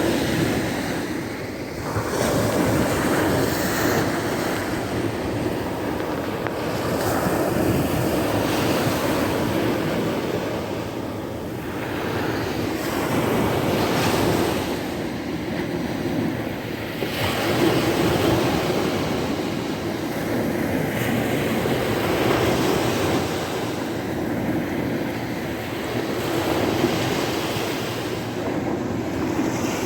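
Sea waves breaking and washing up the shore, the surf swelling and falling back every few seconds. A little wind rushes on the microphone.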